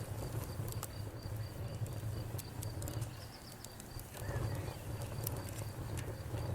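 Wood fire crackling, with irregular sharp pops and snaps over a steady low rumble. A faint high pulsing tone runs underneath.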